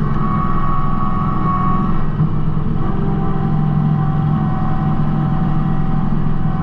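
Kubota B2650 tractor's three-cylinder diesel engine running steadily, with a higher whine that steps down in pitch about three seconds in.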